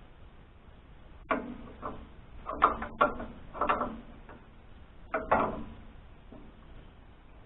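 A wrench on a jam nut and the steel around it: about half a dozen sharp metallic clanks and clinks with a brief ring, bunched in the first five seconds.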